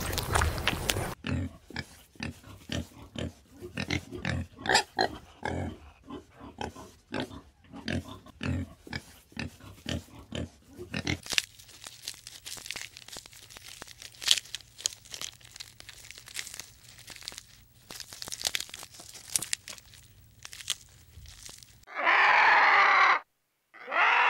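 A coypu (nutria) chewing and crunching food in quick irregular clicks for the first eleven seconds, then sparser, softer crunching as a giraffe browses leaves. Near the end, two loud harsh calls, the first about a second long and the second shorter.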